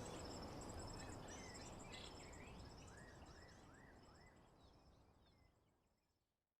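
Nature ambience of birds chirping and an insect trilling steadily, over a low background noise, fading out to silence near the end.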